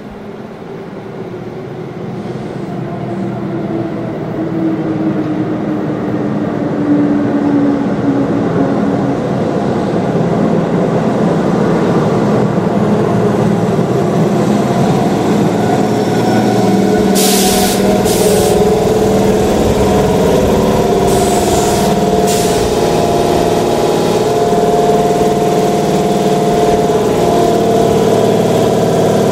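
Keihan 2400 series electric train pulling into the platform. Its rumble swells and a whine falls in pitch as it brakes. Short bursts of air hiss come twice in the middle, then the stopped train's underfloor equipment hums steadily.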